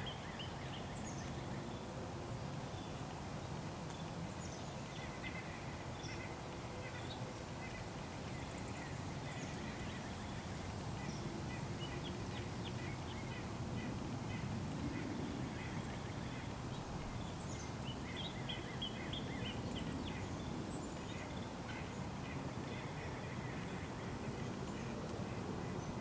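Small birds chirping and calling in short, scattered notes, busier about halfway through, over a steady low background rumble.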